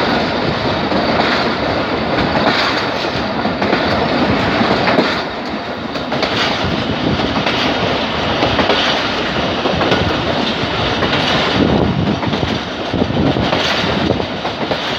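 Passenger train coach running on the rails as it pulls out of a station, with a steady rush of wheel noise and a repeating clatter of the wheels over rail joints, heard close to the coach side.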